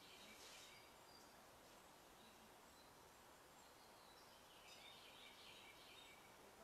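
Near silence: faint background noise, with faint bird chirping briefly about half a second in and again from about four and a half seconds in.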